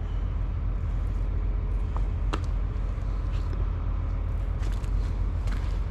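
Tractor engine running steadily at idle, a constant low rumble, with a couple of light clicks about two seconds in.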